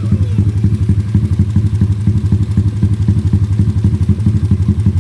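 Drag-bike motorcycle engine idling loud through an open pipe with no muffler, a steady, even pulsing beat that holds at one speed without revving.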